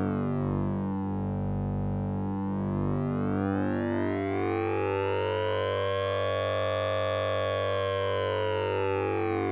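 Synthesizer tone from the Orange Vocoder plugin with oscillator sync and ring modulation: a steady low drone under bright, dense upper partials that sweep slowly down, bottom out about two seconds in, then rise to a peak around seven seconds in and start falling again near the end.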